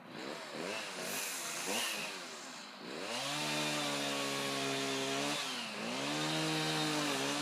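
Chainsaw revving in quick blips, then held at steady high revs as it cuts into a tree, dropping briefly a little past the middle and coming back up.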